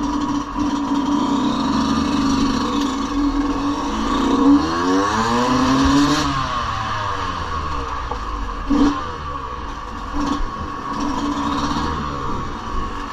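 Yamaha 125cc dirt bike engine running and revving, its pitch sweeping up and down around the middle, with a short knock about nine seconds in.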